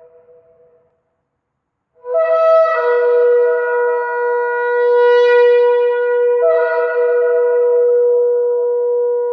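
Shofar blown in one long sustained blast beginning about two seconds in, after the last of the previous blast has faded. The note wavers before settling on a steady pitch and swells again near the end.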